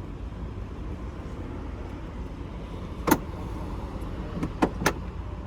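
Smart car's 1.0-litre three-cylinder engine running with a steady low rumble, broken by three sharp clicks, one about three seconds in and two close together near the end.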